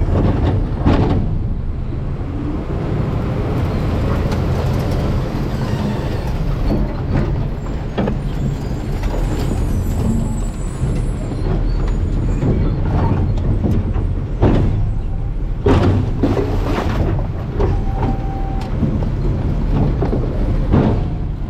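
Garbage truck running with its engine rumbling under load, with several sharp cracks and snaps scattered through as trash is crushed in the hopper, and a hiss of air or hydraulics a few seconds in.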